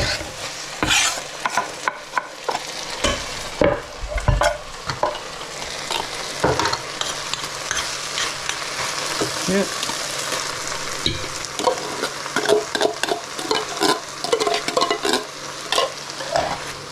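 An onion, garlic and paprika stew base sizzles and fries in a pot while chopped tinned tomatoes are stirred in. A utensil scrapes and knocks against the pan.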